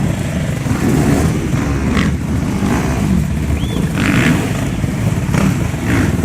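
Off-road motorcycle engines running loud and revving up and down, with no break.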